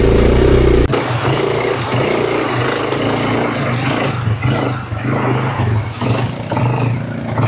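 Quad bike engine running steadily while riding, with a loud low rumble in about the first second.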